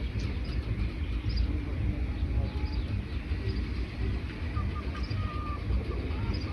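Wild birds chirping in a forest: short high chirps scattered throughout, with a lower whistled phrase about four to five seconds in, over a steady low rumble.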